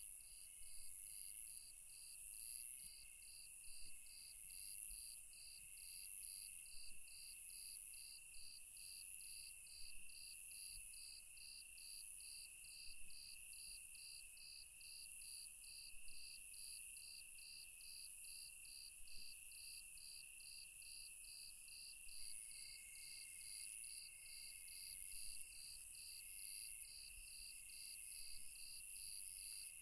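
Night chorus of crickets and other insects: one chirping in even pulses about two to three times a second over a steady high trill.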